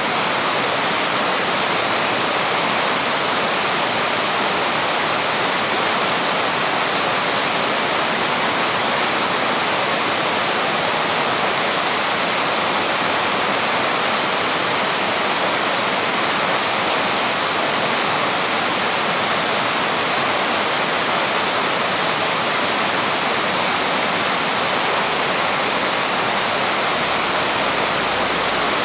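Small waterfall with water pouring steadily over rocks into a stream, a constant even rush with no change.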